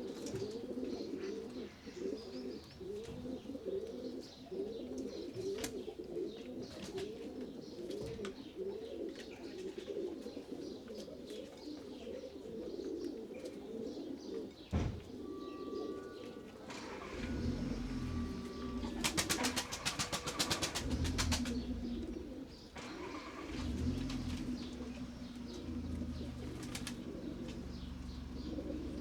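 A flock of pigeons cooing, many birds overlapping in a continuous chorus. About two-thirds of the way through there is a brief rapid clatter, and a low hum comes in under the cooing.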